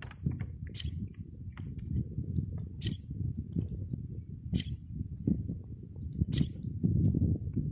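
A wild bird repeating a short, high call about every two seconds, over a steady low crackling rumble.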